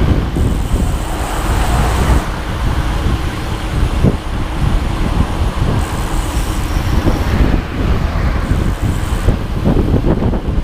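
Steady low rumble of a vehicle in motion, with irregular knocks and rattles throughout.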